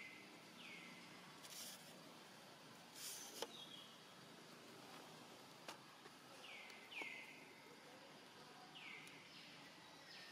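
Faint outdoor background with a bird calling: short notes that drop sharply in pitch, coming in pairs near the start, about six seconds in and about nine seconds in. A couple of brief hissy rustles and a few soft clicks fall in the first few seconds.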